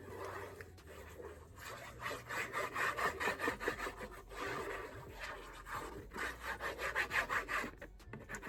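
Scissors cutting through paper or cardstock in quick repeated strokes, in several runs with short pauses between.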